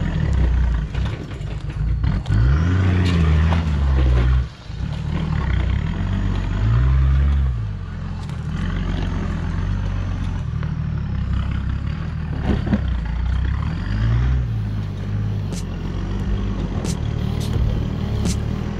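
Four-wheel-drive vehicle's engine revving up and falling back three times as it works over a rough off-road track, with a few sharp knocks near the end.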